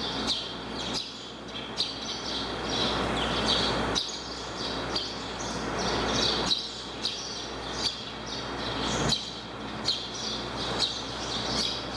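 Small birds chirping in short, repeated calls over a steady low hum and a rushing noise that swells and fades.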